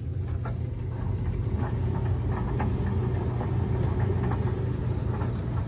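Panda compact portable dryer running with a steady low hum, with faint scattered ticks and knocks from its tumbling drum load of towels.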